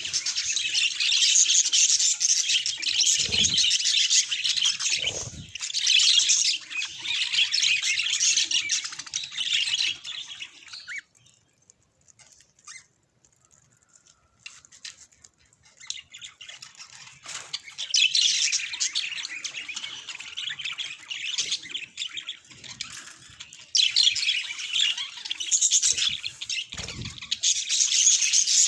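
Budgerigars chattering and warbling in dense, busy bursts with sharp squawks mixed in. The chatter dies away for a few seconds around the middle, then builds back up.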